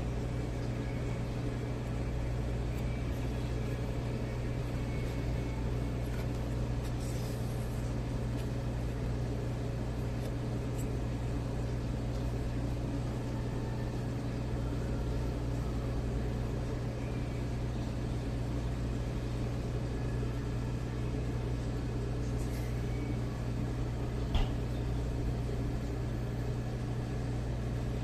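A steady low hum with no change in level, and a single short click near the end.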